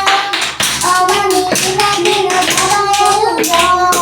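A young voice singing a melody in held, gliding notes, accompanied by repeated sharp hand claps.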